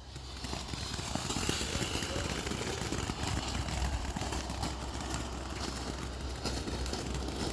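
A vehicle driving past on the street, its engine and tyre noise swelling over the first second or so and then holding steady.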